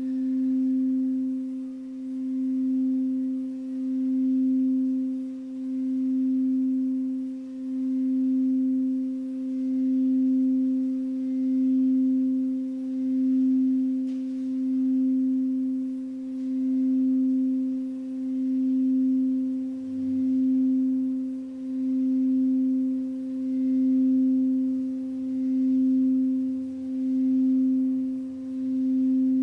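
A singing bowl sustaining one steady, pure tone with a fainter overtone an octave above. The sound swells and dips evenly about every two seconds.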